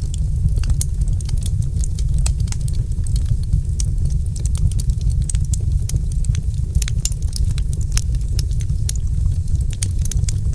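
Wood fire crackling in a fireplace: many quick, irregular pops and snaps over a steady low rumble.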